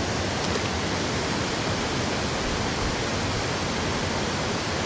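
Steady rush of water flowing over a shallow river waterfall.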